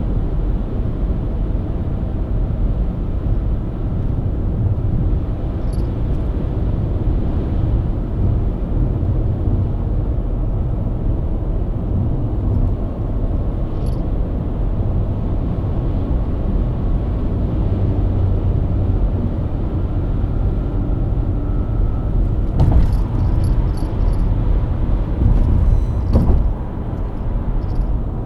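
BMW E90 323i's inline-six engine running steadily at cruise under a low rumble of tyre and road noise. Near the end comes a short run of sharp clicks and knocks.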